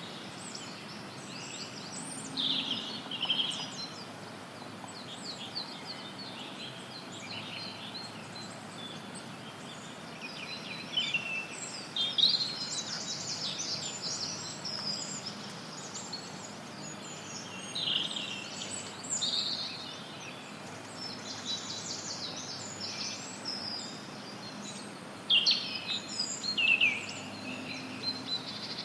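Forest songbirds chirping and trilling in overlapping bursts over a steady hiss of added white noise; the calls come in clusters, loudest about twelve seconds in and again near the end.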